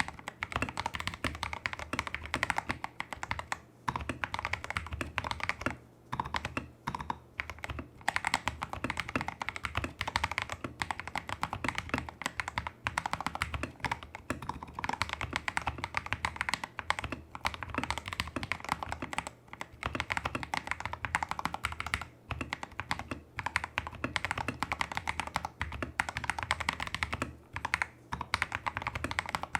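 Continuous fast typing on a Tester68 mechanical keyboard. It has lubed Holy Panda clone tactile switches, XDA-profile keycaps, a taped PCB and greased, modded stabilizers. The key presses come in a rapid, dense stream with a few short pauses.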